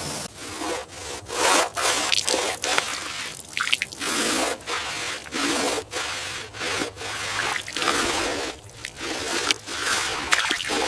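Repeated hand rubbing or scraping strokes on a surface, irregular, about two a second.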